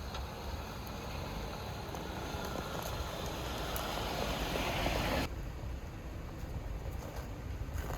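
A vehicle on the trail drawing nearer, growing louder over about five seconds, then cut off abruptly, leaving a low rumble.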